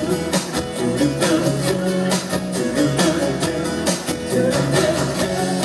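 Live rock band playing an instrumental stretch between sung lines, with guitar, bass and a steady drum beat.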